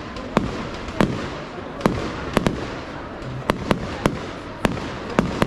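Fireworks display: about ten sharp bursts at irregular intervals, several close together, over a continuous noisy background.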